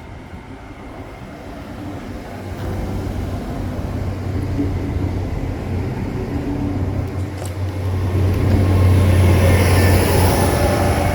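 Great Western Railway intercity train pulling out of the station on diesel power, a low engine drone that grows steadily louder as it gathers speed past, with a rising hiss near the end.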